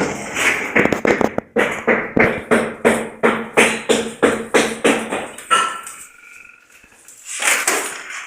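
Rapid, even hammer blows, about three a second, that stop about five seconds in. A short high whine follows, and a brief burst of noise near the end.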